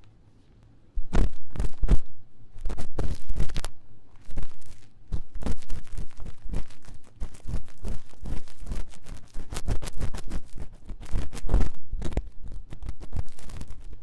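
Ear-cleaning tool scratching and scraping fast and vigorously on the silicone ear of a 3Dio binaural microphone. The dense, rapid strokes start about a second in.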